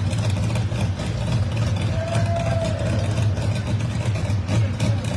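Drag race car engines idling at the starting line with a steady, low, choppy lope.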